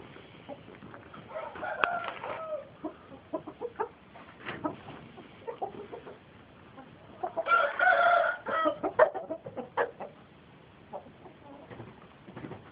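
Birds calling: short calls throughout, a softer drawn-out call about two seconds in, and a louder drawn-out call lasting about a second around eight seconds in.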